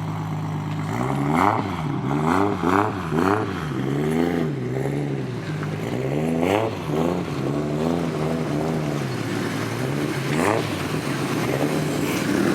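Car engine idling, then revved in quick repeated blips, its pitch rising and falling over and over for several seconds before settling back to a steady idle.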